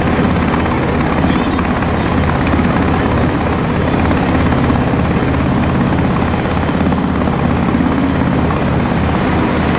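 Army helicopter's rotor running loudly and steadily, a fast, even blade chop.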